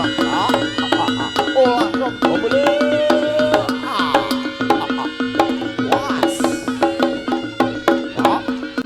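Live jaranan ensemble music, Javanese drums and bronze gong-chimes, playing a fast steady beat with many ringing tones and a few sliding notes.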